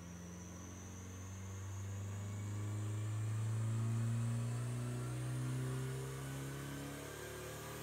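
Mitsubishi Eclipse's engine running at low revs on a chassis dyno, its note climbing slowly and evenly. A faint high whine rises along with it.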